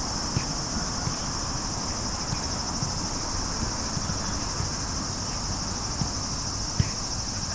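Steady, high-pitched insect chorus with a fine rapid pulse, under a low outdoor rumble with a few brief soft thuds.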